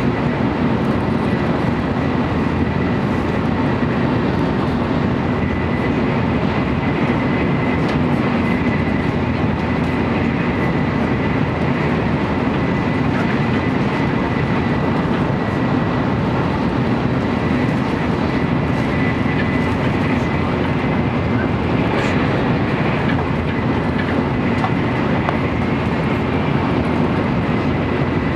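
Steady cabin running noise of an N700 series Shinkansen at speed, heard inside a motor car: a dense, even rush of rolling and wind noise with a faint steady high tone over it.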